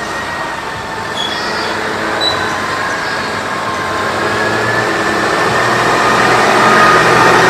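Massey Ferguson 7S.155 tractor's six-cylinder diesel engine working hard under load as it drags a weight-transfer pulling sled, growing steadily louder.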